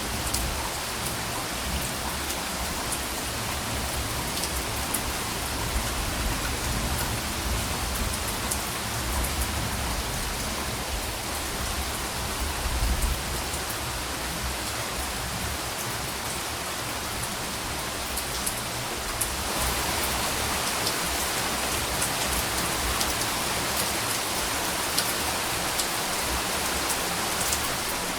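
Steady rain falling, an even hiss with scattered drop patter. A low rumble of soft, distant thunder swells in the first half and peaks about halfway through. The rain grows a little louder about two-thirds of the way in.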